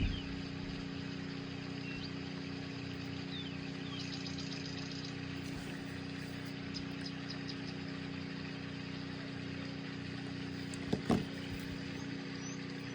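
Steady low mechanical hum made of several steady tones, with a few faint ticks and a brief tap about eleven seconds in.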